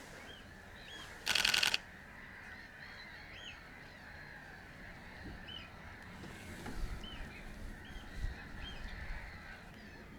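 A wetland chorus of many waterbirds calling at a distance, with scattered short upward-sliding calls, and one loud, brief honk close by about a second and a half in.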